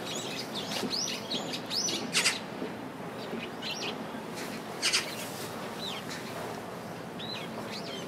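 Birds calling: thin, arched chirps come and go, with two loud, short, sharp notes about two and five seconds in.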